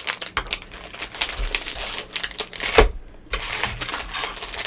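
Plastic-wrapped cookie packages being handled and tapped: a quick run of clicks and crinkles, with one louder knock about three seconds in.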